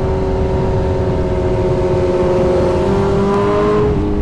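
Motorcycle engine running at a steady highway cruise, with wind rushing over the rider's microphone. The engine note climbs slightly, then drops about four seconds in.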